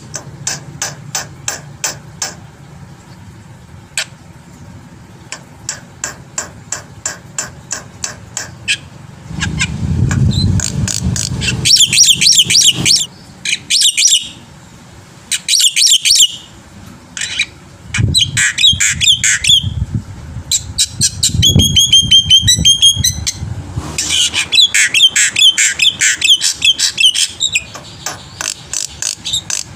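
Black-winged myna (jalak putih) singing a varied song: a long series of sharp, evenly repeated chips, then loud harsh chattering phrases and quick trills, broken by short pauses.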